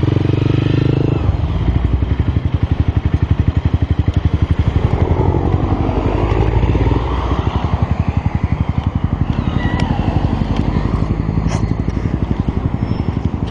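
Motorcycle engine running with a steady, evenly pulsing beat.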